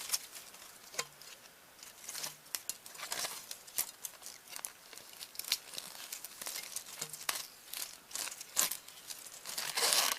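A foam strip being picked, torn and peeled off a VHS cassette's plastic shell: irregular short scratchy tearing and crinkling strokes with a few small clicks, louder near the end.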